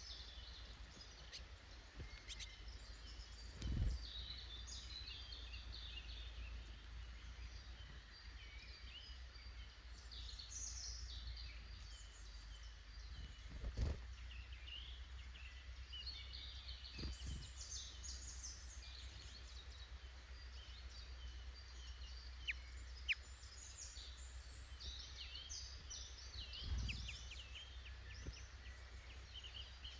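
Small woodland songbirds chirping and singing, many short calls and trills overlapping through the whole stretch, over a steady low rumble. A few short low thumps stand out, the loudest about four and fourteen seconds in.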